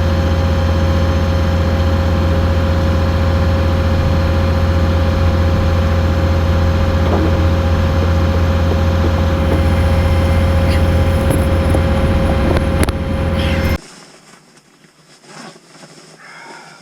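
Heavy diesel truck engine running steadily at idle, a deep low drone with a steady hum above it. It stops abruptly near the end, leaving only faint small noises.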